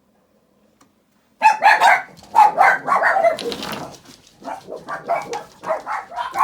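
Dog barking loudly and repeatedly, starting suddenly about a second and a half in.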